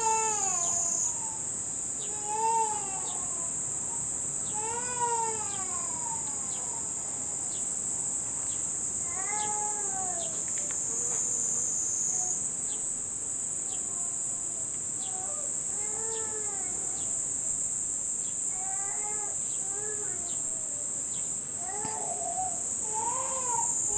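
Cicadas singing in a steady, high-pitched buzz. An infant cries in repeated rising-and-falling wails, loudest near the start and near the end.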